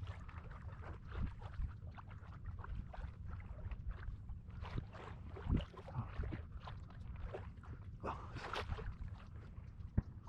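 Scattered rustling and small knocks over a steady low wind rumble on the microphone.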